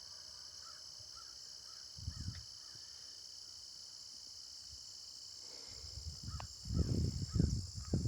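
A steady outdoor chorus of crickets and other insects, with faint short bird chirps. Low rumbling bumps on the microphone come in briefly about two seconds in and again over the last second and a half.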